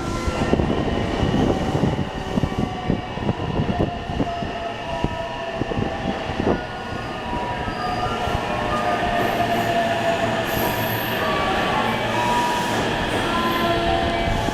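JR West 225-series electric train pulling in and braking, its wheels clacking over rail joints in the first half. A motor whine falls slowly in pitch as it slows, with some wheel squeal.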